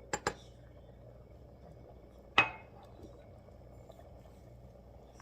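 A spoon clinking against a soup pot: two quick clicks, then a louder tap that rings briefly about two seconds later.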